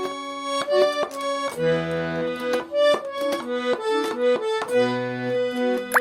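Garmon (Russian button accordion) playing a song's introduction: a melody of short notes over lower bass and chord notes.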